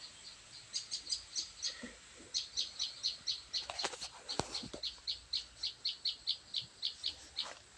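A bird calling a long, regular series of short high notes, about four or five a second, with a few sharp clicks around the middle.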